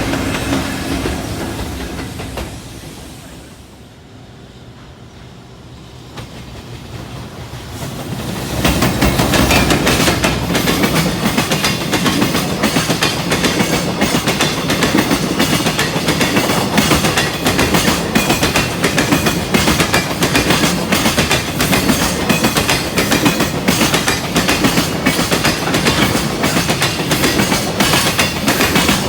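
A train fades away, then about eight seconds in a freight train passes close by, its wagons clattering steadily over the rail joints in a fast, even run of clicks.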